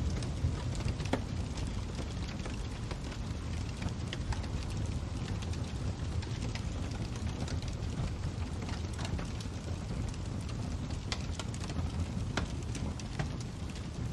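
Fire crackling: irregular sharp pops and crackles over a steady low rumble.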